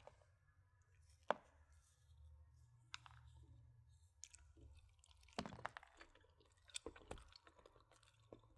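Quiet, close-miked eating of baked macaroni and cheese with a plastic fork: scattered small clicks and wet chewing sounds, the sharpest click a little over a second in and a run of them about two thirds of the way through.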